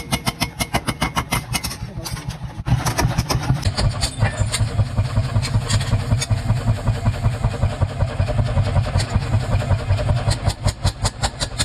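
Mechanical power hammer pounding hot iron at an even rhythm of several blows a second over a low motor hum. It gets louder about three seconds in.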